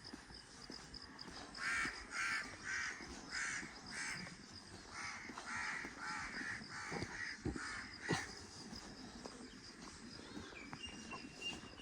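A crow cawing over and over: about a dozen harsh caws, roughly two a second, from about two seconds in until about eight seconds in.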